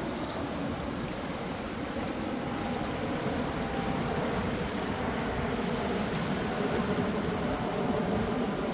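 Calm sea waves washing steadily, with a faint steady hum underneath that grows slightly louder toward the end.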